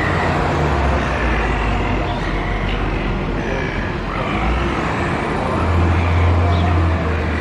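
Street traffic: a steady wash of road noise under a low engine rumble that gets louder about five and a half seconds in as a vehicle draws close.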